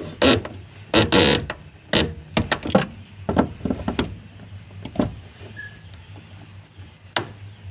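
Irregular sharp clicks and knocks of hand tools and metal parts being worked during a car fuel pump installation, over a steady low hum.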